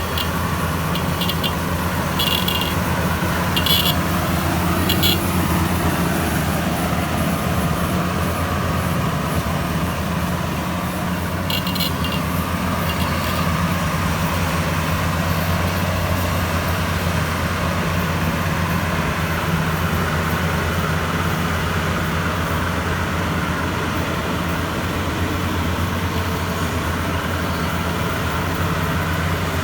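Maxxi Bimo 102 rice combine harvester's engine running steadily with a low drone, with a few short high-pitched clicks in the first five seconds and again about twelve seconds in.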